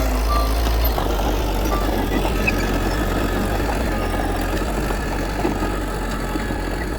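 Heavy diesel engine of earthmoving machinery running steadily, with a deep, constant rumble.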